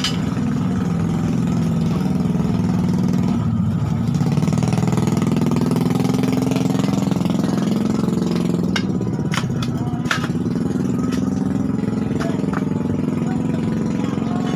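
A motor running steadily with a low hum that wavers slightly in pitch, with a few sharp clicks about nine to ten seconds in.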